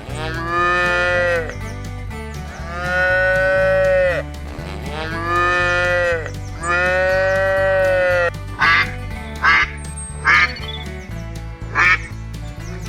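A cow mooing in about four long, drawn-out calls, then a duck quacking about four times in short, separate bursts over the last third. Background music with a steady beat runs underneath.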